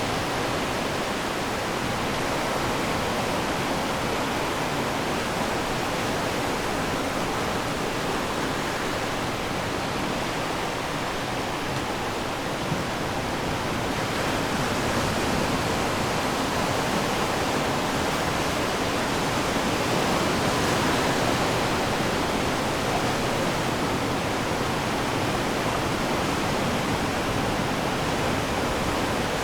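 Ocean waves washing onto the shore: a steady rush of surf that swells a little about two-thirds of the way through.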